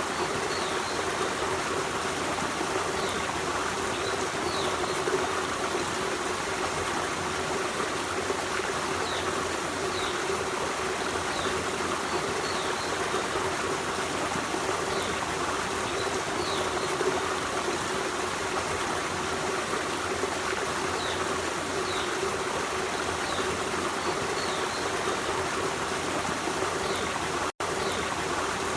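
Forest stream running steadily over rocks, with short high chirps repeating every second or two above the water. The sound cuts out for an instant near the end.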